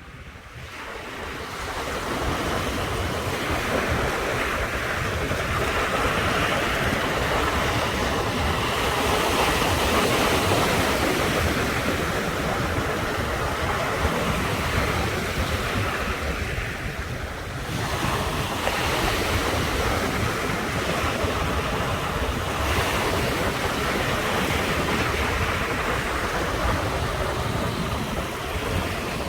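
Ocean surf washing in continuous waves, fading in from silence over the first couple of seconds. A lull comes a little past the middle, then new waves surge in.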